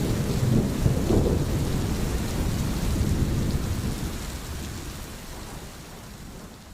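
Steady rain with a low rolling rumble of thunder in the first couple of seconds, then fading out gradually.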